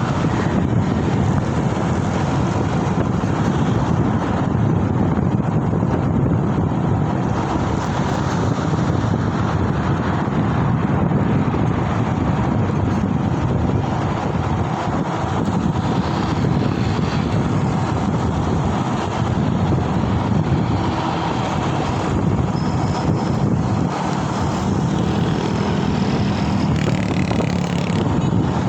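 Steady road noise of a ride in traffic, with wind rushing over the microphone.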